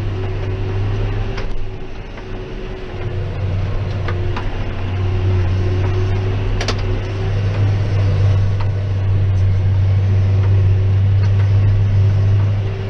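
John Deere 6190R tractor working hard pulling a Claas 3300 baler through barley straw: a steady low engine drone with a constant hum, and a few short ticks.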